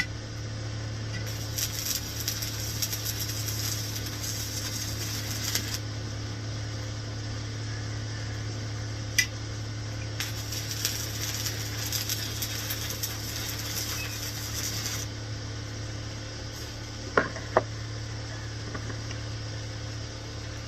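Stick (MMA) arc welding with a 6013 electrode at 70 amps on an INGCO 220 A inverter welder: two runs of crackling, sizzling arc of about four to five seconds each, over a steady low hum. A few sharp metallic clicks fall between and after the runs.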